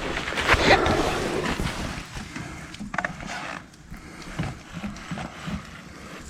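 Rustling and a few light clicks and knocks as the loose loader control linkage of a compact tractor is moved by hand; the linkage moves freely when it should not, the fault behind the limp bucket control.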